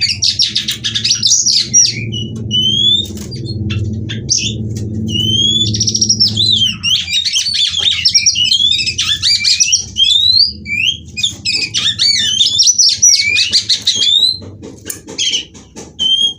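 Female Oriental magpie-robin singing a fast, varied song of whistled rising and falling glides mixed with harsh chattering notes. A low hum runs underneath for about the first seven seconds.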